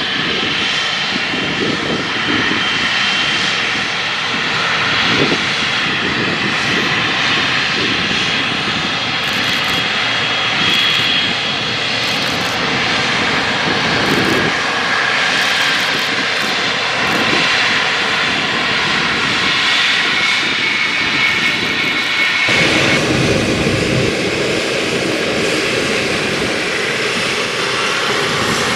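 Boeing 777-300's twin turbofan jet engines running at taxi power: a steady loud hiss with a high whine. A deeper rumble joins about three quarters of the way through.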